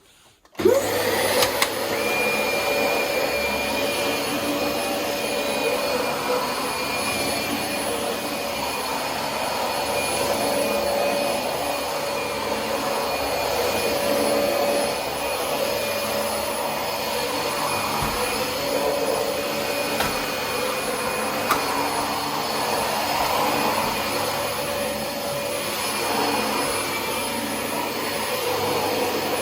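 Dyson DC25 upright ball vacuum cleaner switched on about half a second in, then running steadily while vacuuming: a constant rush of air with a high motor whine over it.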